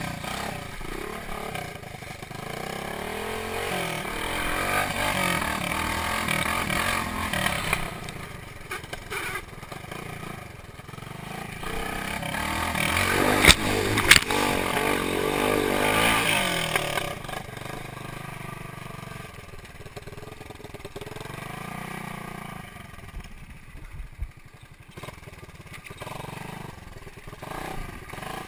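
Motorcycle engine running and being revved, its pitch and loudness rising and falling, with the loudest surge in the middle and two sharp clicks at its peak. It settles to a quieter running sound over the last third.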